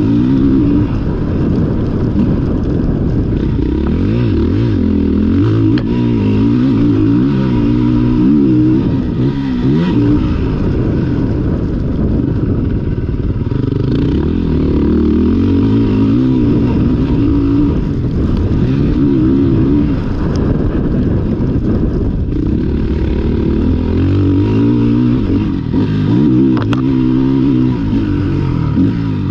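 Motocross dirt bike engine revving up and down again and again as the bike accelerates, shifts and backs off around the track.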